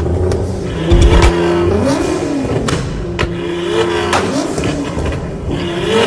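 Car engine revved three times, each time held at steady high revs and then dropping back, with sharp exhaust pops and bangs from an exhaust flamer kit.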